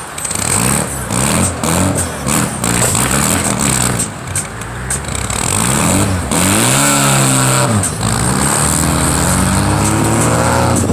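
Car engine revved over and over, its pitch rising and falling in quick blips, then one longer, higher rev about two-thirds through.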